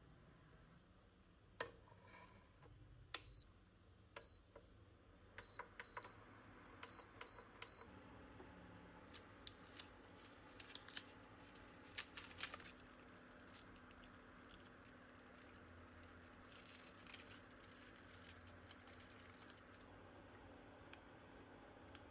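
Quiet kitchen food-prep handling: scattered light clicks and taps, with a faint steady hum starting about eight seconds in and a spell of crackling and clicking through the middle.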